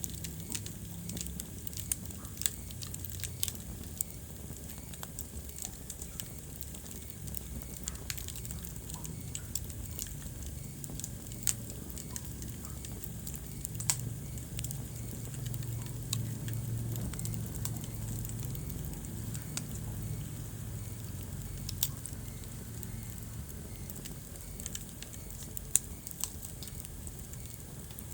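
Wood fire crackling in a fireplace: scattered sharp pops and snaps, a few louder than the rest, over a low steady rumble of the flames.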